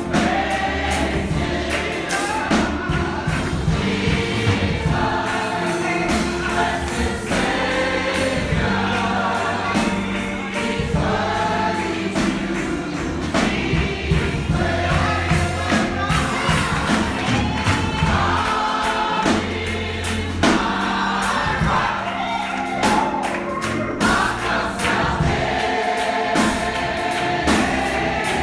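Church congregation singing a gospel song together, with a steady percussive beat and sustained low bass accompaniment.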